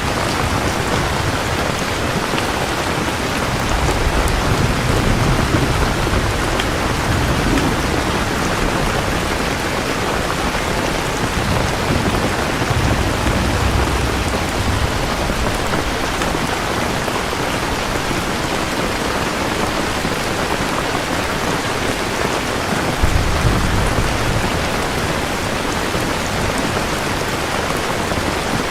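Steady heavy rain falling and pattering on surfaces, with low rolls of distant thunder swelling up three times.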